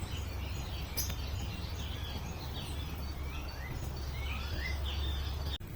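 Several small birds chirping and singing, with short rising whistled notes, over a steady low rumble. The sound cuts off abruptly near the end.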